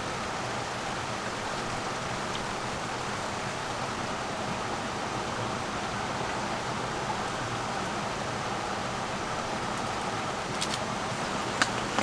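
Steady rain falling: an even hiss, with a few light ticks of drops near the end.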